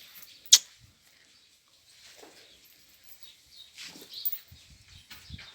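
A single sharp knock about half a second in, then a few faint goat bleats.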